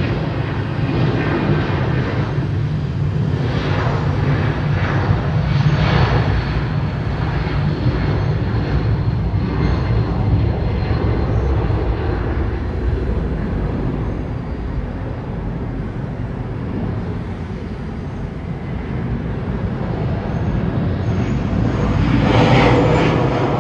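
Jet airliner engines running at an airport, a loud steady rumble that swells about six seconds in and again near the end.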